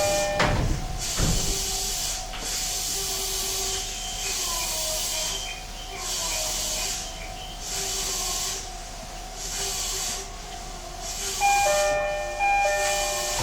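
E131-series electric train standing at a station with its doors open: a hiss swells and fades roughly every second and a half. The doors' two-tone chime starts sounding about two-thirds of the way through, the warning that they are about to close.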